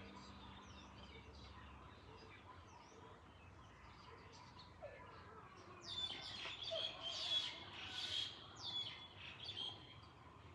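Birds chirping and calling, many short high calls overlapping, busiest from about six to ten seconds in.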